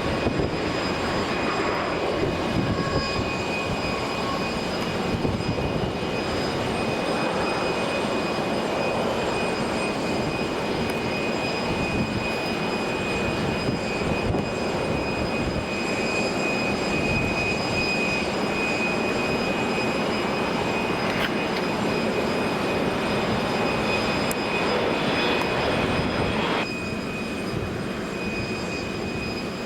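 Jet airliner engines running, a steady rushing noise with a high whine through it. Near the end the sound drops off abruptly and becomes quieter.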